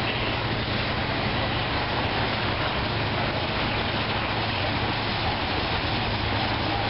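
Freight train of tank cars and boxcars rolling past, a steady rumble and hiss of steel wheels on the rails.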